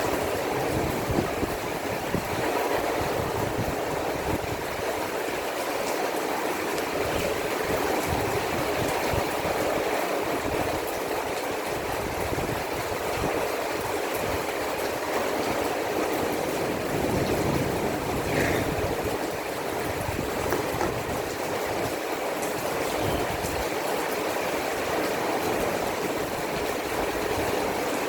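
Heavy storm rain pouring down, an even, unbroken rushing noise.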